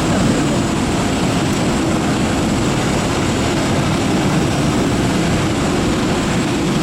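Airbus A340-300 jet engines running: a steady, loud roar heaviest in the low end, with a thin high whine held above it.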